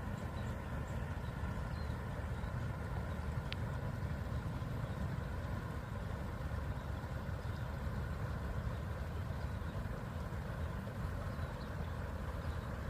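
A river flowing: a steady low rush, with a few faint high chirps over it.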